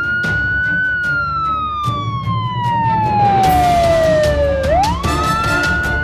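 A siren wailing: one long falling wail, then a quick rise again about five seconds in, over background music with a steady beat. A short hiss comes in briefly past the middle.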